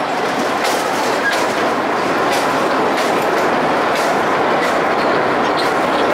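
A 762 mm narrow-gauge sugar-railway tourist train running across a bridge: a steady rumble of wheels on rail with irregular clicks from the rail joints.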